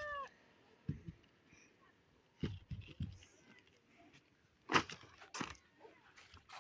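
A rooster's crow ends just after the start; then come scattered knocks and crunching handling sounds, the loudest two about five seconds in.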